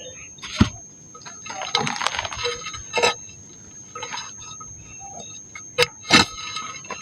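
Dry, hardened pink mud crumbling and breaking apart, with about half a dozen sharp cracks and short gritty crunches between them, over a faint steady high whine.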